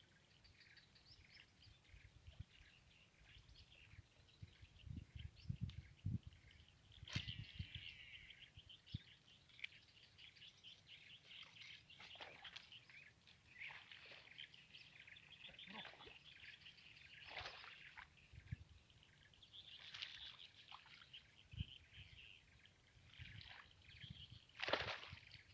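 Faint birdsong: birds chirping and calling over the swamp, with several quick downward-sweeping calls in the second half. A few faint low knocks come a few seconds in.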